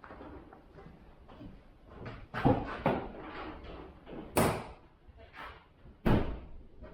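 Four sharp bangs, two close together about two and a half seconds in, the loudest one about halfway, and one more near the end.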